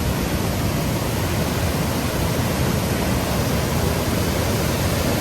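Virginia Falls' lower cascade rushing close by: a loud, steady roar of falling water with no breaks.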